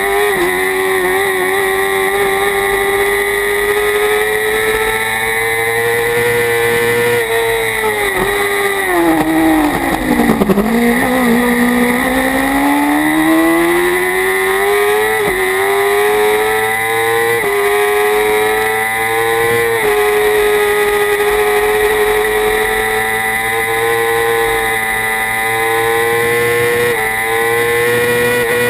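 Kawasaki Ninja ZX-6R inline-four racing engine at high revs, heard onboard with wind rush. About a third of the way in the revs drop sharply through downshifts under braking, then climb again through a series of upshifts a couple of seconds apart before holding high.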